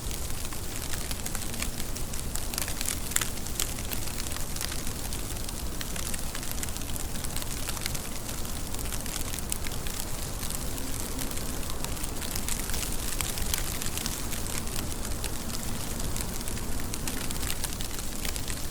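Steady rain falling on a surface, a dense even hiss full of small drop ticks that never lets up.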